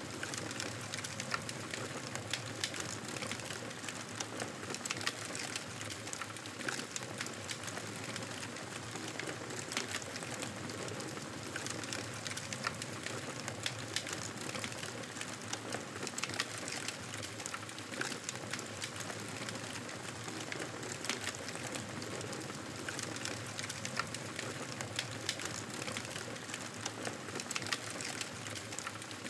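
Campfire burning, a steady hiss with frequent sharp crackles and pops.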